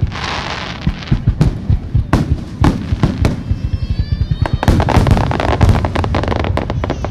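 Star mine fireworks finale: a rapid barrage of aerial shell bursts, booms and crackles following one another in quick succession, densest and loudest in the second half.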